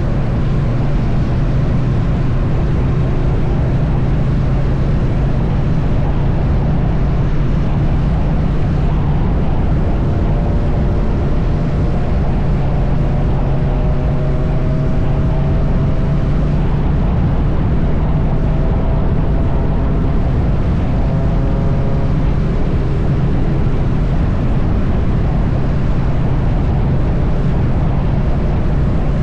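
Triumph Bonneville T100's parallel-twin engine running steadily at highway cruising speed, under a constant rush of road and wind noise.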